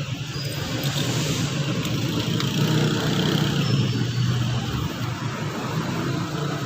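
Car engine running with a steady low rumble that grows a little louder midway.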